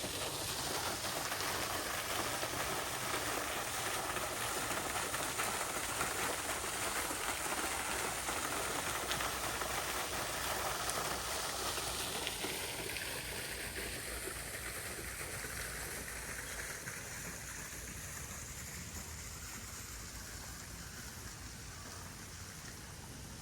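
A steady rushing noise, like falling or running water, that slowly fades over the second half.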